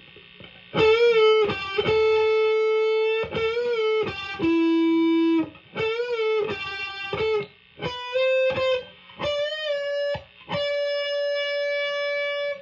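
PRS S2 Standard 24 electric guitar on its neck pickup, split to single-coil, played through a Marshall amp's ultra gain channel. It plays a single-note lead melody with string bends and vibrato, and several notes are held for a second or more.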